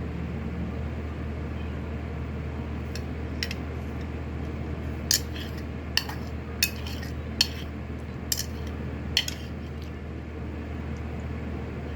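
Eating utensils clinking sharply against a bowl, about eight times in the middle stretch, over the steady hum of an electric fan.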